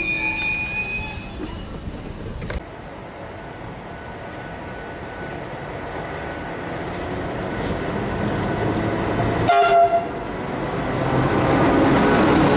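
Train wheels squealing, fading out in the first second. Then a train approaches with a steadily growing rumble, gives one brief horn toot about ten seconds in, and runs on louder.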